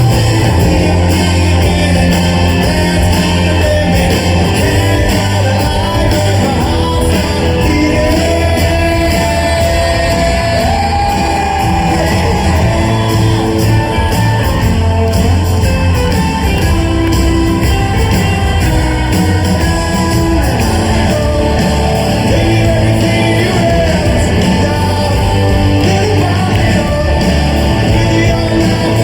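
Live rock band playing at full volume in a large hall, a sung vocal over guitars and drums.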